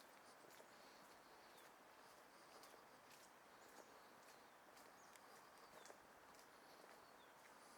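Faint outdoor park ambience: soft, high bird calls over a quiet hiss, with scattered light clicks.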